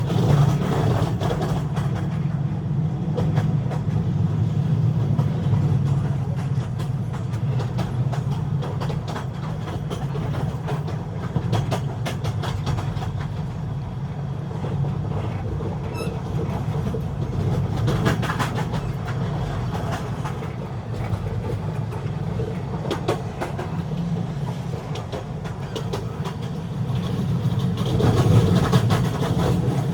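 Train running along the track: a steady low rumble of wheels on rails with many short clicks, growing a little louder near the end.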